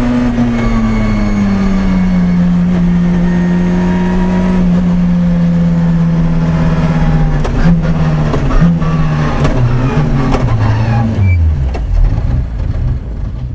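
Citroën Saxo rally car's four-cylinder engine heard from inside the cockpit, its note held steady and sinking slowly as the car runs down after the stage finish. About halfway through the revs start stepping up and down unevenly, with a few sharp clicks, and near the end the note falls much lower as the car slows right down.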